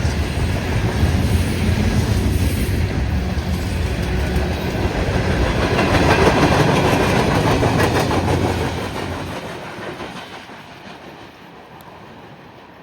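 A freight train rolling past, its wheels running on the rails. The sound is loud and steady, then fades away from about eight or nine seconds in as the train moves off.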